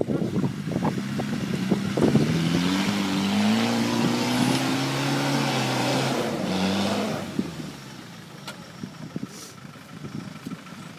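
Land Rover Discovery 4x4 engine revving hard under load as it climbs a steep bank, its pitch rising steadily, then dropping back and fading about seven seconds in. Scattered knocks in the first two seconds.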